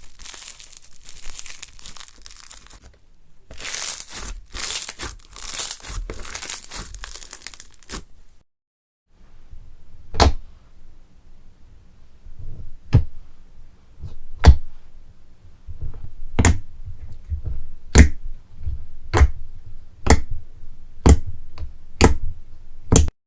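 Crunchy slime being squeezed, giving a dense crinkling crackle for about eight seconds. After a short break come a dozen or so sharp single snaps, closer together toward the end.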